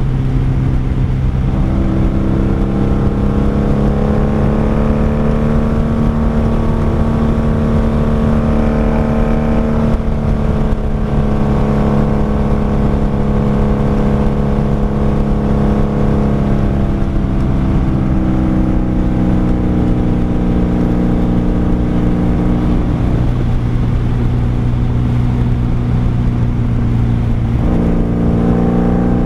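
1995 Honda Magna VF750C's V4 engine and exhaust running on the road under steady throttle. The engine note holds steady, drops in pitch a few times and steps back up near the end, with a low rushing noise underneath.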